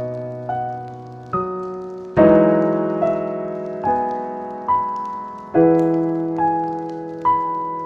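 Slow, gentle solo piano music: soft chords and single notes, each struck and left to ring out and fade before the next.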